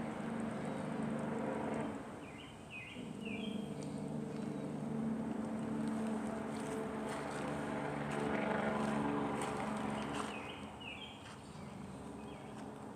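A distant motor's steady drone that swells and fades, with short high chirps twice.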